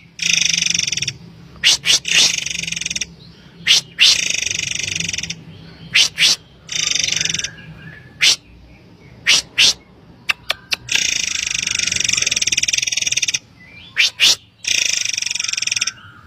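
Murai air bird calling loudly, as used to lure and train birds. It gives harsh, hissing high-pitched calls a second or two long, alternating with short, sharp whistled notes, over a steady low hum.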